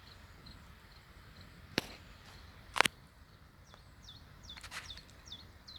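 Two sharp clicks about two and three seconds in, the second the louder, then a small bird calling with a quick run of short, high, falling chirps.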